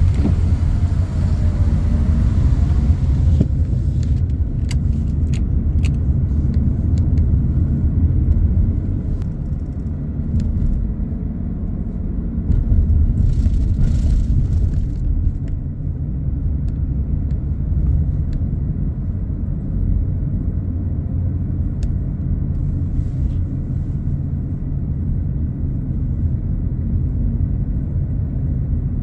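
Car driving along a road: a steady low rumble of engine and tyres, with a few faint clicks about four to six seconds in.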